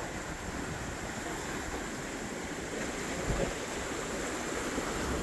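Steady rushing noise of wind and water at an ocean inlet, with wind buffeting the microphone.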